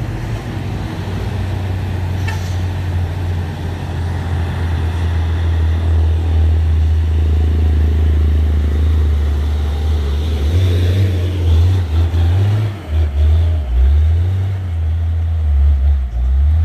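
Heavy truck's diesel engine droning under load as it labours on a slippery climb. From about ten seconds in, the engine note wavers and surges unevenly.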